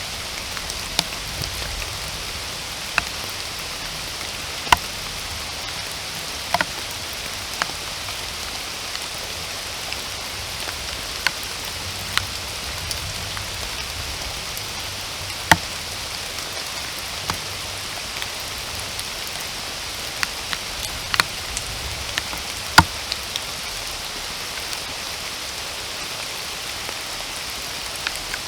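Steady rain falling in a forest, a constant even hiss, with irregular sharp taps of single large drops landing close by, a few of them louder than the rest.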